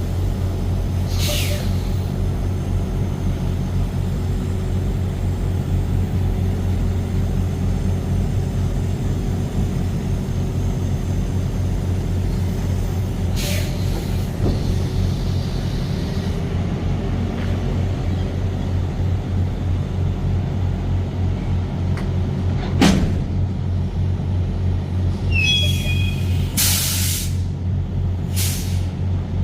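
A truck's engine running steadily, a low drone, with four short hisses spread through it and one sharp click about two-thirds of the way in.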